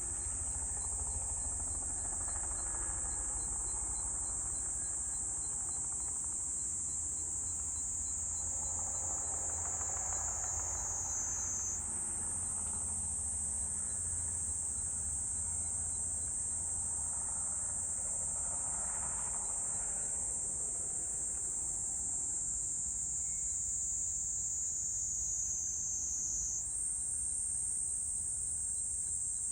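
Insects chorusing in a steady, high-pitched buzz whose pitch sags twice and snaps back up. Beneath it, a fainter low noise swells and fades about every nine seconds.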